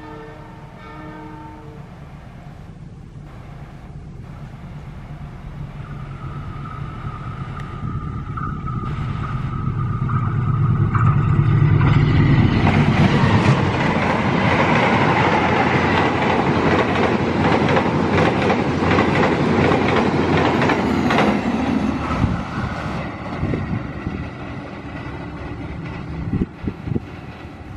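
Passenger train hauled by a diesel locomotive passing close by. A horn chord sounds briefly at the start, then the locomotive's engine rumble builds and goes by about ten seconds in. The coaches' wheels then clatter over the rail joints for about ten seconds before the sound fades as the train moves away.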